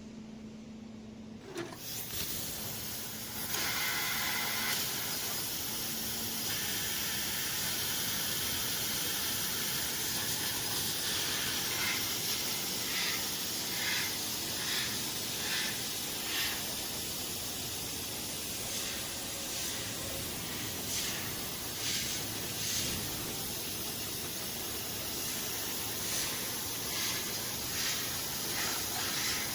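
CNC fiber laser cutting machine cutting metal: a steady hiss, typical of the assist-gas jet at the cutting head, that starts about one and a half seconds in, with short louder surges every second or so later on.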